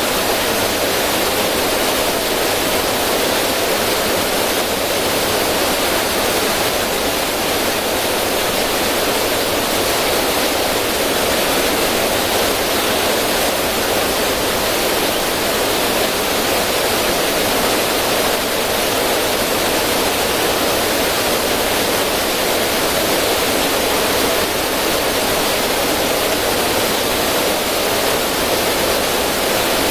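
River water rushing over rocks and spilling through a small cascade, a steady, unbroken rush.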